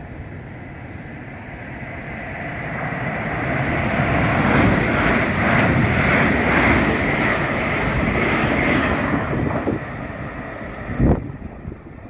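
A train passing through the station: its running noise builds over a couple of seconds, holds loud for about five seconds and dies away. Wind buffets the microphone, with a short low thump near the end.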